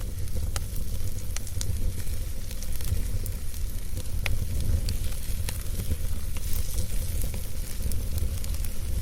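Wood campfire burning: irregular sharp crackles and pops over a steady hiss and a low, constant rumble.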